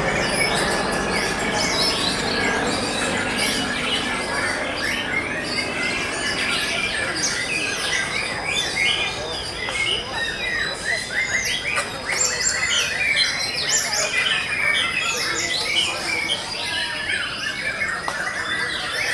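Many caged white-rumped shamas singing at once, a dense overlapping mass of quick whistles, chirps and trills.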